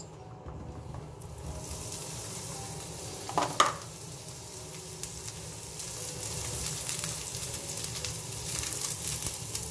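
Sliced mushrooms sizzling in hot olive oil in a nonstick pan as they are stirred with a silicone spatula. The sizzle comes up about a second and a half in, when the mushrooms hit the oil, and holds steady, with a brief clatter about three and a half seconds in.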